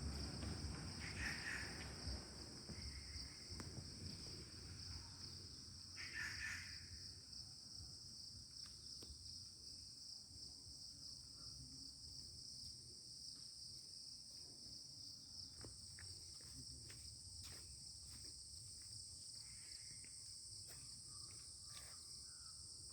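Faint, steady high-pitched insect chorus, like crickets, holding two even tones throughout. Two short calls stand out about one and six seconds in, over a low rumble that dies away in the first few seconds.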